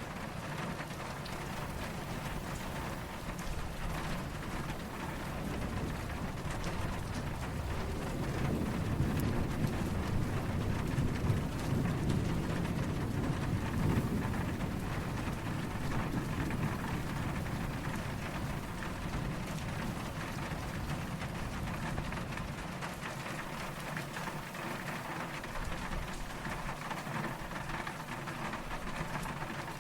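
Steady rain falling, with a low, soft rumble of distant thunder that swells up about a third of the way in and fades away by the middle, with no sharp crack.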